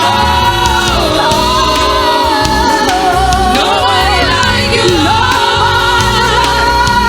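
Gospel choir singing with band accompaniment: a voice sings drawn-out, wavering melodic lines over held chords and a steady low bass pulse.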